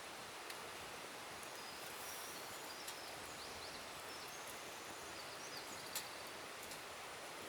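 Quiet forest ambience: a steady hiss with a few scattered sharp clicks and faint, short, high-pitched chirps, as of distant birds or insects.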